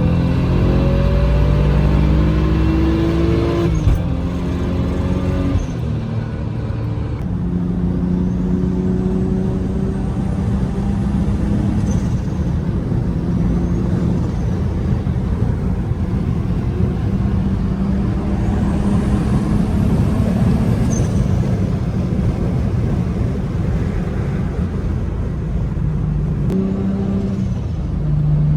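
Straight-piped exhaust of a single-turbo BMW N54 straight-six on 14 psi of boost: the engine revs up under throttle, drops in pitch sharply about four seconds in, then drones on with the revs rising and falling. A faint high whistle rises and falls twice.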